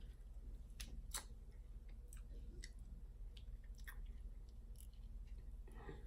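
Eating sounds: chewing, with a scattering of sharp little clicks and cracks as crab-leg shell is worked open.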